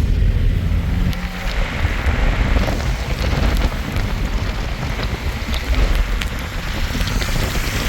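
Snowstorm with steady wind and falling rain and snow, the wind rumbling heavily on the microphone.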